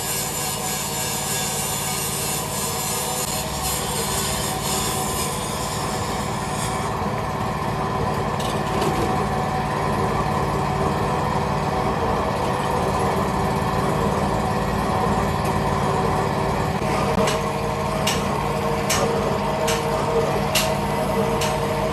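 Factory machinery running steadily with a hum of several held tones. A hiss fades out about seven seconds in, and a few sharp clicks or knocks come near the end.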